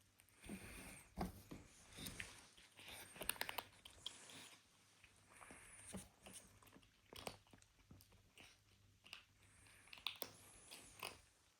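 Kitten eating, with faint, irregular crunching and chewing sounds.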